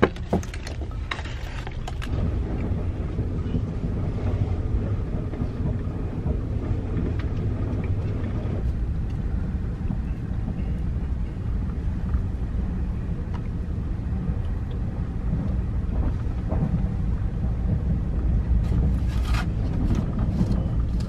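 Steady low rumble inside a TGV train carriage running at speed, with a few brief clicks and rattles in the first two seconds and again near the end.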